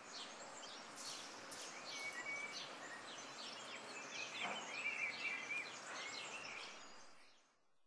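Several birds chirping and singing, short high chirps and a couple of brief trills, over a steady outdoor background hiss that fades down near the end.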